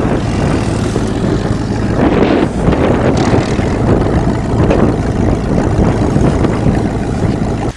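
ATV engine running steadily as the quad is ridden, with wind buffeting the microphone.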